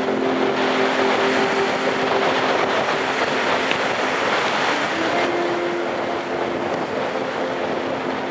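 Strong wind blowing, with a steady low drone that drops away about half a second in and comes back about five seconds in.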